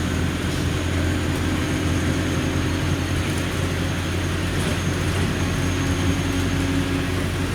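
Alexander Dennis Enviro200 bus's diesel engine running with a steady low hum.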